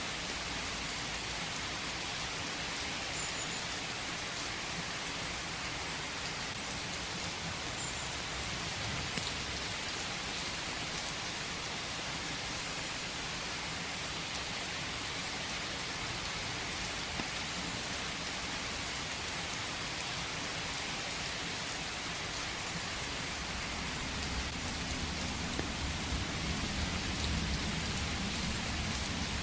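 Steady rain in a forest: an even hiss with a few faint drops ticking. A low rumble swells over the last few seconds.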